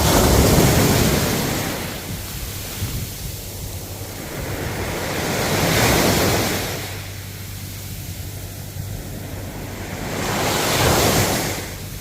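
Ocean waves breaking and washing in, three surges about five seconds apart, each swelling and falling away over a couple of seconds.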